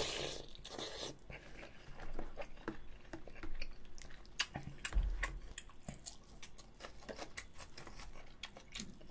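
Close-miked eating of gukbap, Korean pork and sundae soup with rice: a mouthful taken from the bowl, then wet chewing with many small mouth clicks. A soft low bump about five seconds in.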